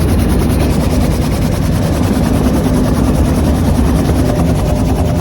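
Bell UH-1 Huey helicopter's turboshaft engine and two-bladed rotor running, a loud steady noise.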